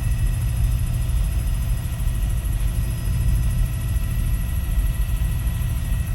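Helicopter in flight heard from inside the cabin: a steady, loud low rumble of rotor and engine with thin, steady whining tones above it.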